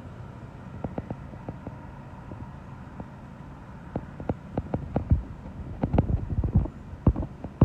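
Strong wind gusts buffeting the microphone in a string of low thumps, growing denser and louder about halfway through, over a steady low hum.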